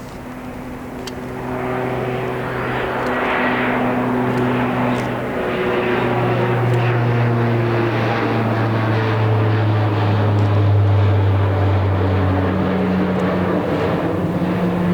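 Airliner passing low overhead at the end of the runway, its engine noise building over the first two seconds and then staying loud, with tones that slide lower in pitch as it goes by.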